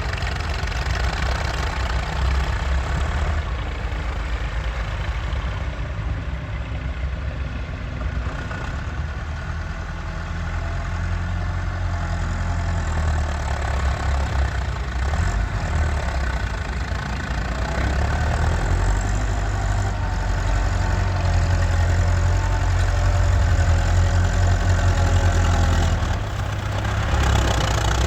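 Massey Ferguson 385 tractor's four-cylinder diesel engine running steadily, growing somewhat louder in the second half with a brief dip near the end.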